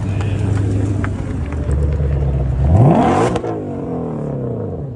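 Car engine idling, then revved once: a quick sharp climb in pitch that peaks and falls back toward idle.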